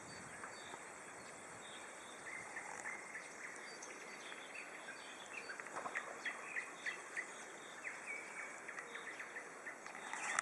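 Songbirds singing, with many short chirps and quick repeated notes over a steady outdoor hiss.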